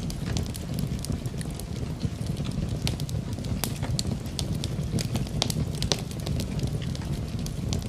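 Wood fire in a fireplace crackling, with irregular sharp pops over a steady low rushing, mixed with the sound of rain.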